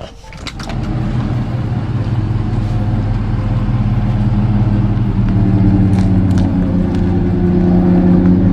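Pickup truck engine running steadily with a low drone, growing gradually louder over several seconds as it pulls.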